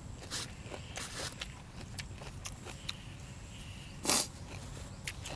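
Close-up eating sounds: chewing and crunching with scattered small clicks and crackles, and one louder, noisier bite or slurp about four seconds in.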